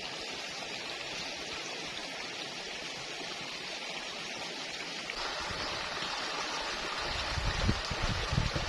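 Water running steadily, like a small stream. About five seconds in the sound shifts abruptly, and low thumps come in near the end.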